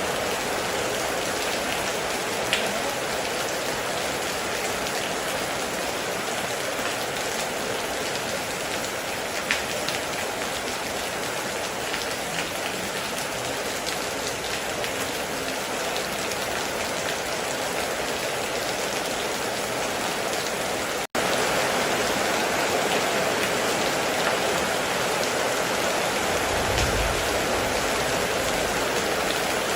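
Heavy rain falling in a steady, dense hiss, with an occasional sharper drop tick. Two-thirds of the way through, the sound cuts out for an instant and comes back slightly louder. A short low rumble follows near the end.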